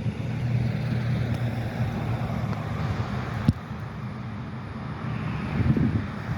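Outdoor road traffic: a motor vehicle's engine drones low and steady nearby, easing off about halfway through and building again near the end. A single sharp click comes about three and a half seconds in.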